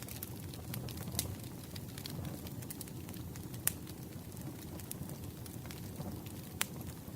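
Campfire burning with a steady low rumble of flames and constant light crackling. Sharp pops break through three times, the loudest about midway.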